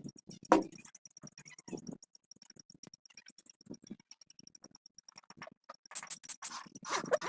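Scattered light clinks and knocks, like small metal parts and tools being handled, over a faint, fast, even ticking.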